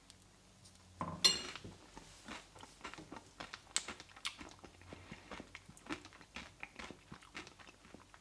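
Close-up chewing of a mouthful of porridge oats with blueberries and pieces of a cereal bar mixed in: wet mouth clicks and soft crunches throughout, with one louder, sharper sound about a second in.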